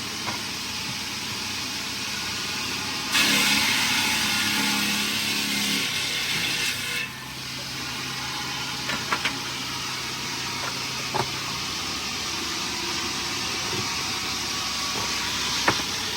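Heavy truck or machinery engine running steadily. About three seconds in, a loud hiss with a low hum lasts about four seconds, and a few sharp knocks come later.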